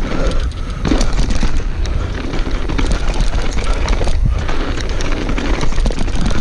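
Downhill mountain bike descending a rough trail at speed: wind buffeting the microphone with a deep rumble, and the bike's tyres and frame rattling and knocking over the bumps.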